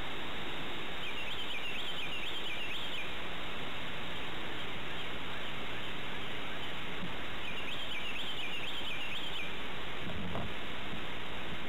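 A bird calling twice, each time a quick series of short high notes lasting about two seconds, over a steady background hiss, with a soft bump near the end.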